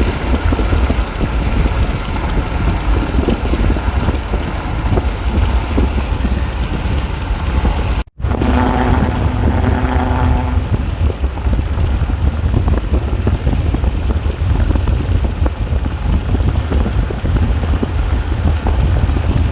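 Strong wind buffeting the microphone in a loud, deep rumble. About eight seconds in it cuts out for an instant, and a steady pitched tone sounds for about two seconds under the wind.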